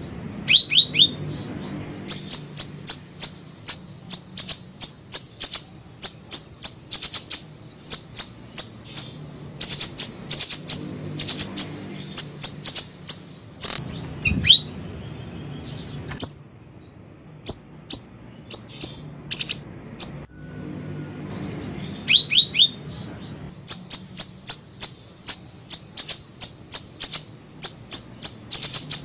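Small bird (siri-siri) calling: rapid bouts of very high, thin chirps, several a second, with a few lower notes mixed in and short pauses between bouts.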